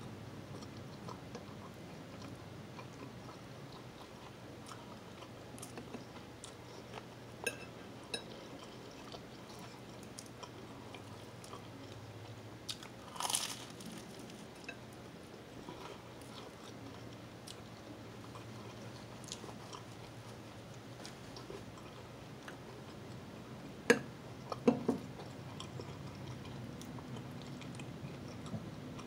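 A person chewing and biting food close to the microphone, with small scattered mouth clicks. A crisp bite comes about halfway through, and a few sharp clicks near the end.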